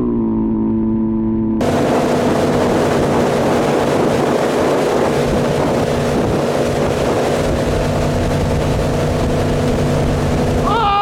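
Centurion Fi25 wake boat's engine running steadily at towing speed, with a constant-pitch hum. About a second and a half in, loud rushing wind and water noise comes in over it, and near the end the engine pitch starts to rise.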